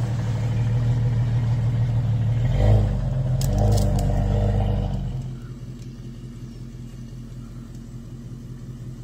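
An off-road 4x4's engine running steadily at low revs while crawling over rough ground, with a short rattle of sharp clicks a little past halfway. About five seconds in the engine sound drops away to a much quieter level.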